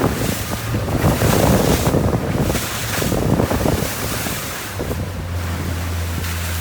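Strong wind buffeting the microphone and water rushing past the hull of a Persson 470 sailing dinghy running downwind in about 21 knots of wind. The buffeting eases about two-thirds of the way in, and a steady low hum comes in.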